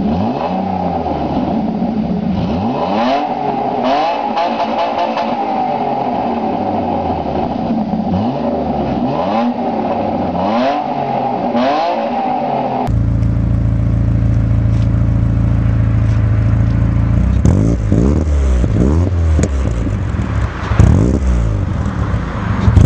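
Car exhausts being revved for a sound test, in two clips. The first car's engine is blipped again and again, each rev rising and falling in pitch. About halfway through, a sudden cut leads to a second car idling with a steady deep note, then revving in short sharp blips.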